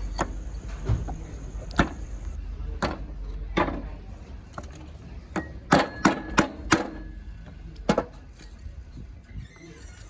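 Sharp, irregular knocks and clinks of hand tools and metal parts, about ten in all and clustered near the middle, as the A/C compressor pulley wheel with its new bearings is fitted back onto the compressor. A low steady hum lies underneath.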